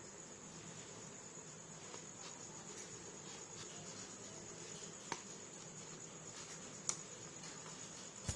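Crickets chirping steadily in a fast, even trill, with two sharp clicks about five and seven seconds in.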